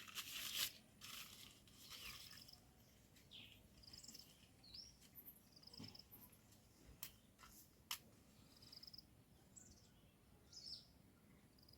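Faint small-bird chirps, short high calls repeating now and then. There is a burst of rustling in the first second and two sharp clicks later on.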